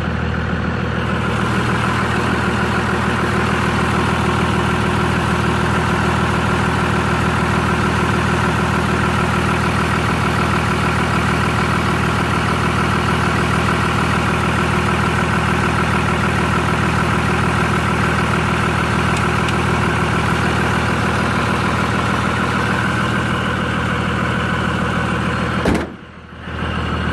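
Truck engine idling steadily after a cold start. Near the end a sharp click and a brief drop in the sound, then the same idle again.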